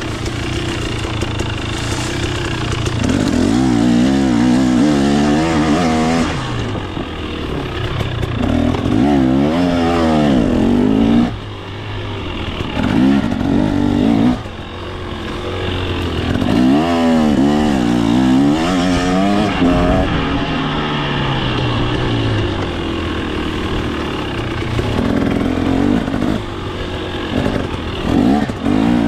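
KTM 250 XC single-cylinder two-stroke dirt bike engine revving up and down over and over as it is ridden, its pitch rising and falling every few seconds, with brief drops where the throttle is shut about 11 and 14 seconds in.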